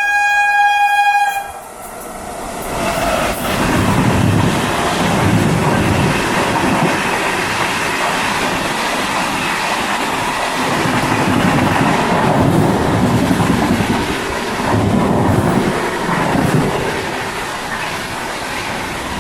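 An electric MEMU train's horn gives one steady blast that stops about a second and a half in. The train then runs on, with a constant rumble and a regular clickety-clack of wheels over the rail joints.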